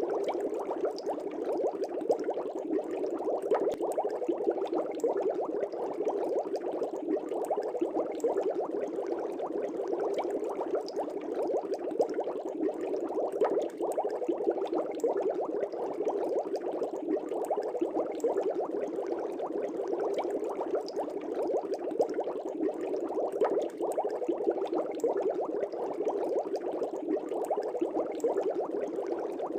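Aquarium air bubbles streaming up through the water of a fish tank: a steady, dense bubbling with fine pops and no pauses.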